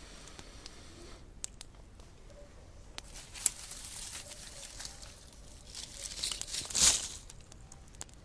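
Small campfire crackling, with scattered sharp pops and stretches of hiss. There is a sharp pop about three and a half seconds in, and the loudest burst of crackling comes about seven seconds in.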